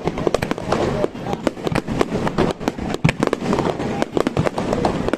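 Starmine fireworks barrage: a rapid, dense string of bangs and crackles, several a second, with a louder burst about three seconds in.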